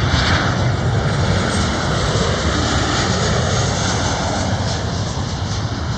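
Airplane passing low on its landing approach: a loud, steady rush of engine noise that eases slightly toward the end.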